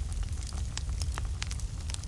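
Wood fire in a fireplace burning with a steady low rumble and frequent sharp, irregular crackles and pops.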